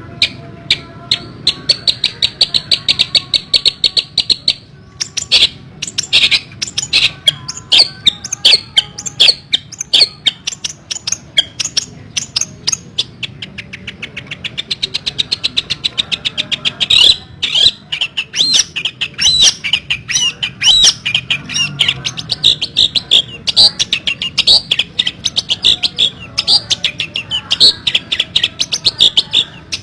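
Long-tailed shrike (pentet) singing without pause: rapid runs of sharp chattering notes, at times in very fast even trills, broken by harsher, more irregular calls.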